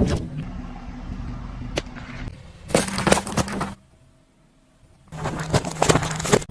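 Objects crunching and cracking as they are crushed, in two bursts separated by a short silent gap, over the steady hum of a running car engine.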